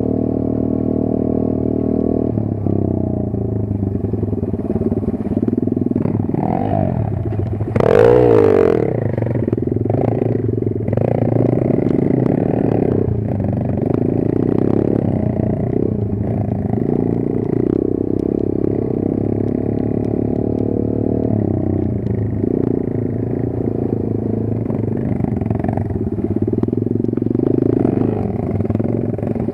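Kayo 140 pit bike's single-cylinder four-stroke engine running while riding, its pitch rising and falling with the throttle, with a loud rev about eight seconds in.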